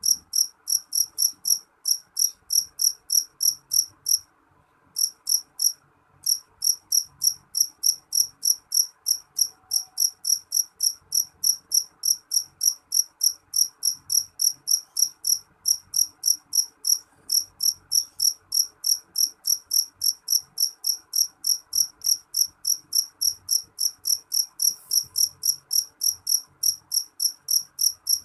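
Jangkrik jeliteng, a black cricket, chirping loudly in a steady, even run of about three high-pitched chirps a second, with one short break about four seconds in.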